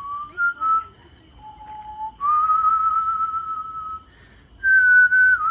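A person whistling a slow tune: a clear whistle holding long notes of a second or two each, stepping between a few pitches with short gaps between phrases.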